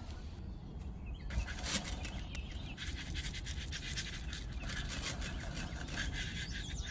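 Small electric motor buzzing, with scratchy scraping noise.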